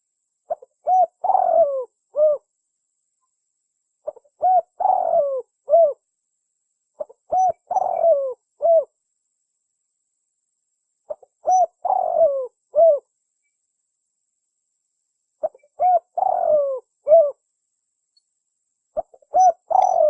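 Spotted dove (tekukur) cooing its song: six repeated phrases a few seconds apart, each a short coo, a longer falling coo and a closing coo, the last cut off at the end.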